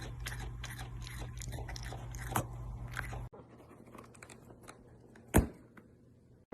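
Crunchy chewing and biting, about three or four crisp crunches a second. It cuts off about halfway through, leaving a few faint ticks and one sharp knock near the end.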